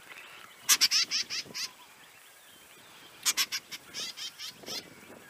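Birds giving bursts of rapid, harsh repeated calls, several notes at a time, about a second in and again around three and four seconds in. These are the calls of birds harassing an intruder.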